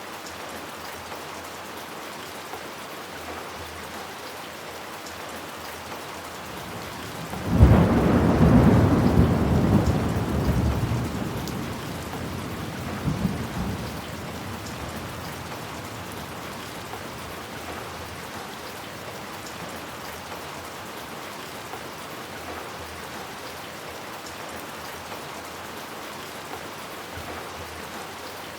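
Steady rain, with a sudden crack of thunder about a third of the way in that rumbles and fades over several seconds, rising once more briefly before dying away.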